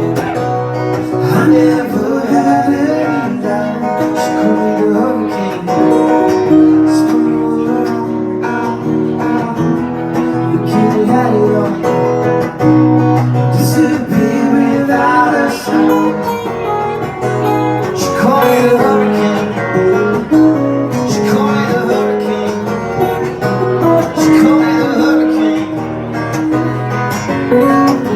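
Acoustic guitar strummed in a live song performance, with a man's voice singing in places.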